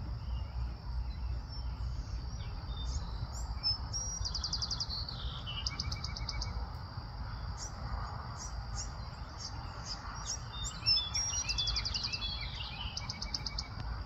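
Small birds chirping, with rapid high trills about four seconds in, around six seconds, and twice near the end. Underneath are a steady high insect drone and a low background rumble.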